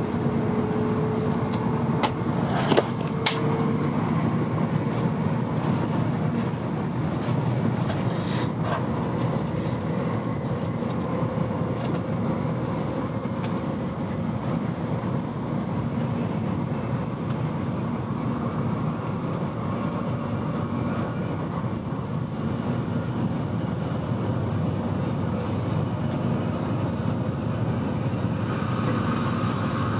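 Interior noise of an N700 series Shinkansen running along the line, heard from inside the passenger cabin: a steady low rumble and rush with a few faint steady tones. There are a few sharp clicks about two to three seconds in and one more near the ninth second.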